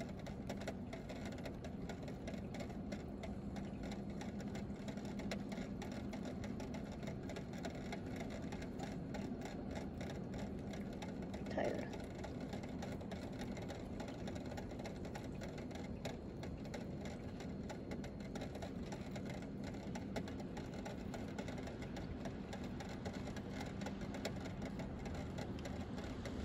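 Light rain pattering steadily, with a constant low hum underneath. A brief faint squeak stands out about twelve seconds in.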